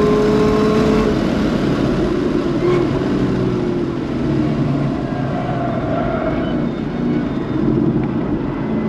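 Supercharged LT4 V8 of a Chevrolet Camaro ZL1 1LE at full throttle, heard from inside the cabin, its pitch climbing then dropping about a second in as it shifts up. It eases off through the middle as the car slows for a corner, then picks up again near the end.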